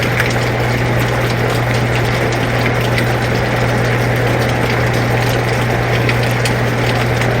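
Air conditioner running with a steady low hum, mixed with rain falling, scattered drops ticking through the hiss.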